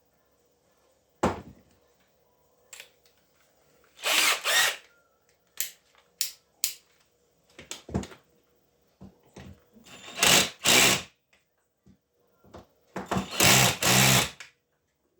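A small power tool run in short bursts: two pairs of half-second bursts, then a longer run of bursts near the end, with sharp clicks and knocks in between.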